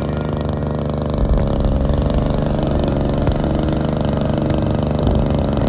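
Model aircraft engine running steadily at idle.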